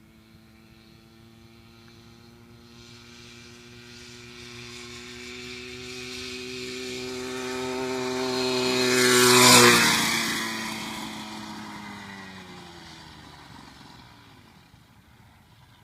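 Small engine of a homemade motorized bicycle passing by: it grows steadily louder as it approaches, peaks a little over halfway through, then drops in pitch and fades as it rides away.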